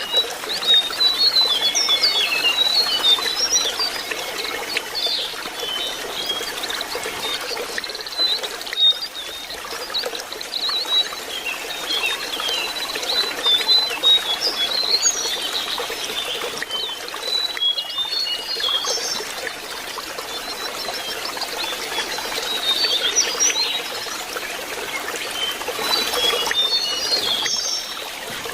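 Lesser shortwing singing quick, jumbled runs of high, short notes in repeated phrases, over a steady trickle of running water.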